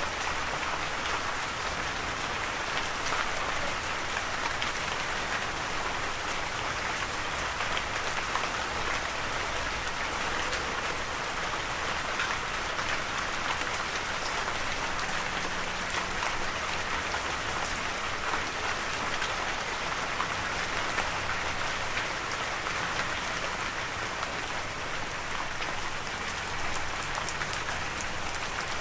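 Steady rain falling, a continuous hiss with many fine drop ticks on a hard surface.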